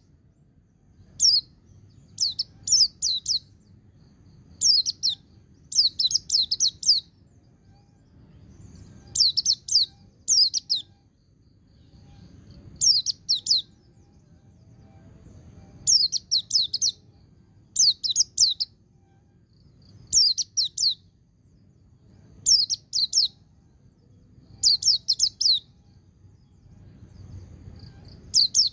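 Pleci (white-eye) singing in the ngalas style: short runs of quick, high, falling notes, one to five in a run, repeated every second or two. A faint low rumble sits underneath.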